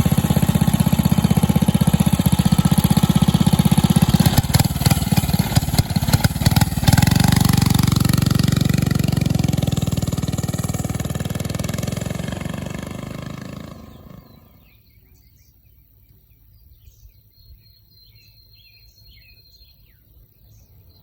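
Small minibike engine running, firing unevenly for a few seconds and then picking up to a fuller, steady run. About fourteen seconds in the engine sound drops away, leaving quiet outdoor background with birds chirping.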